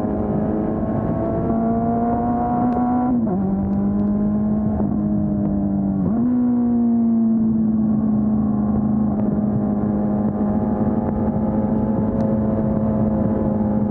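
Honda CB400 Super Four's inline-four engine with its stock exhaust, pulling under load. The note climbs, drops sharply about three seconds in and again about six seconds in as it shifts up, then settles to a steady cruise.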